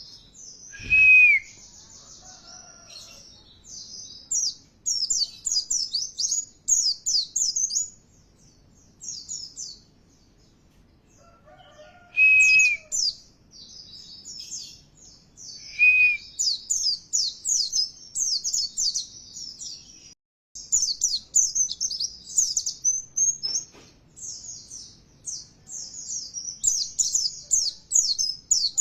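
White-eye (pleci) song: rapid, high, twittering chirps in long bursts, broken by three louder, lower, short whistled notes, one about a second in and two more around the middle. It is a provoking 'pancingan' song meant to get caged white-eyes singing hard.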